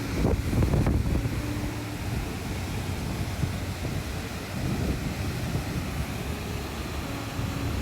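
Motorcycle under way: the engine runs steadily under heavy wind buffeting on the microphone.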